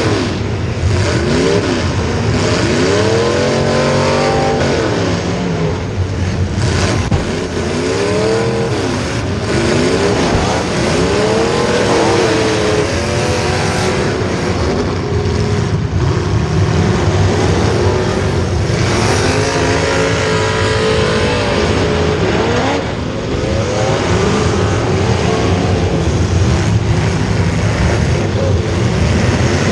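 Several racing engines run hard. Their pitch rises and falls again and again as they rev up and back off, with the engines overlapping.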